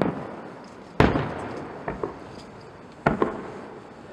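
Aerial firework shells bursting: three sharp bangs, at the start, about a second in and about three seconds in, each fading away in a long echoing rumble, with a few smaller pops between.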